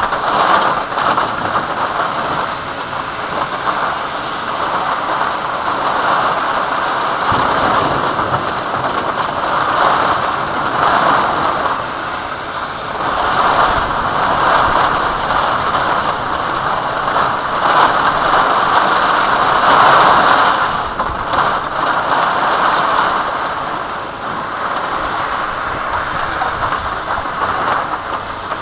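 Heavy rain pouring steadily in a thunderstorm, the downpour swelling louder in gusts several times and easing again near the end.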